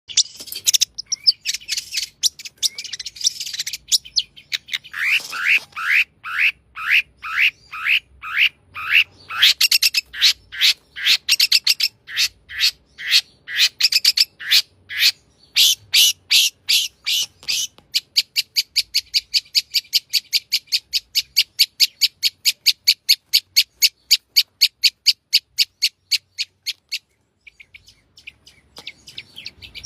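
Long-tailed shrike (cendet) singing a varied song of repeated high notes full of mimicked phrases. Around the sixth second it gives rising sweeps about twice a second, and from about 18 s a fast, even run of sharp notes. It pauses briefly, then starts again near the end.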